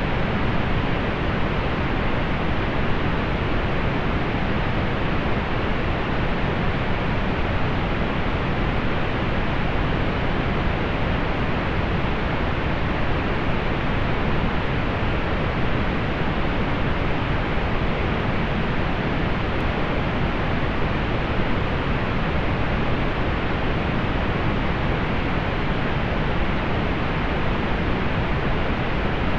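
Steady synthetic pink noise: an even, unchanging hiss weighted toward the low end and rolled off in the highs.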